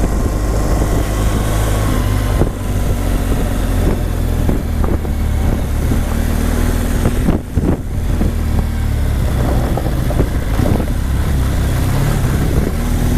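Adventure motorcycle engine running steadily while riding over a rough dirt trail, with frequent knocks and clatters from bumps and stones. The sound dips briefly about seven and a half seconds in.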